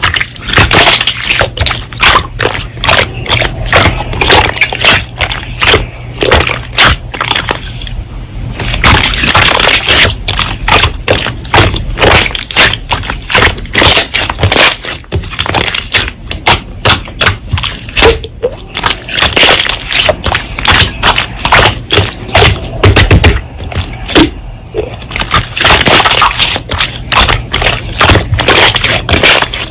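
Slime being pressed and worked by hand, giving a quick, uneven run of sticky clicks and crackling pops, with a few denser crunchy stretches.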